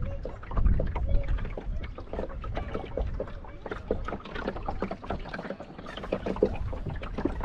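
Wind rumbling and buffeting on the microphone, with water splashing and slapping against the hull of a small sailing dinghy in choppy water.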